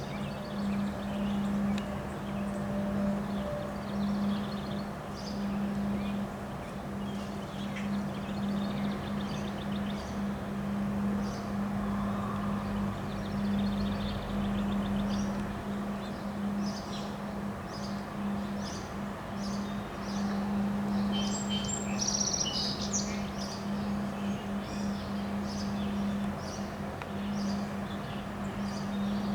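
Wind noise with a steady low hum underneath, and birds chirping: scattered at first, then short chirps repeating about twice a second through the second half.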